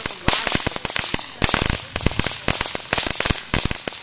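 Consumer fireworks going off in a rapid, irregular string of sharp cracks and pops, several a second, like a lit string of firecrackers or a crackling fountain.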